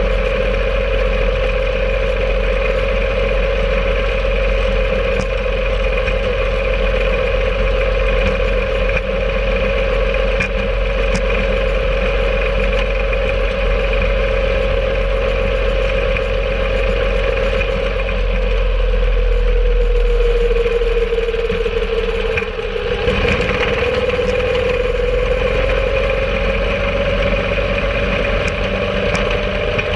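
Engine of a home-made rail cart running steadily under way, with light clatter and scattered clicks. About two-thirds of the way through, the engine note sags briefly, then climbs back up.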